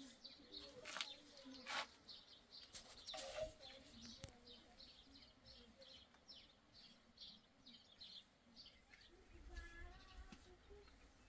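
Faint outdoor ambience: a small bird chirping over and over, about three short chirps a second. A few short scrapes in the first few seconds fit a paint brush stroking a metal door, and there is a brief bleat near the end.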